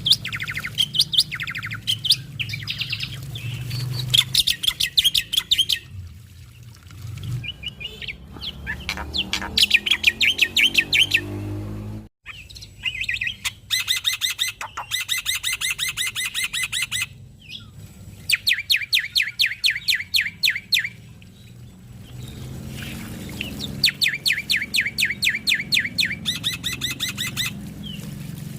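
Male black-winged starling (jalak putih) singing: bouts of fast, rapid-fire chattering notes, many a second, broken by short pauses, with a faint low hum beneath in places.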